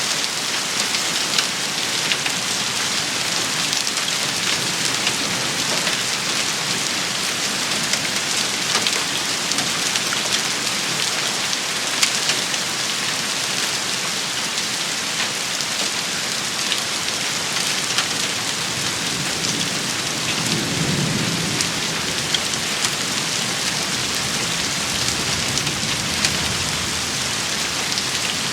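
A rain shower falling steadily on a hard surface, a dense hiss with many sharp individual drop taps. About twenty seconds in, a low rumble swells for a few seconds under the rain.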